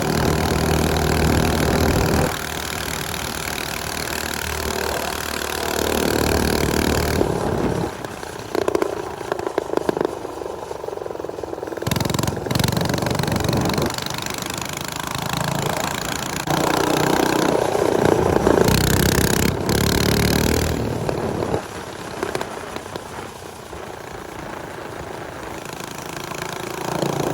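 Small motorcycle engines (minibike and dirt bikes) running while riding, revving up and easing off again and again.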